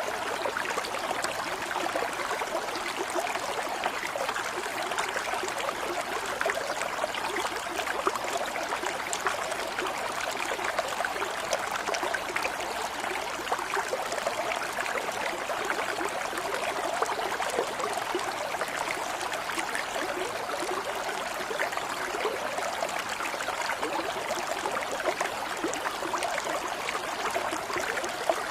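Running water trickling and babbling steadily, like a small stream, with an even, unbroken flow throughout.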